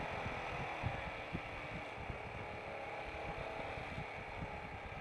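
Royal Enfield Himalayan single-cylinder motorcycle running steadily along the road, with wind rumbling irregularly on the microphone.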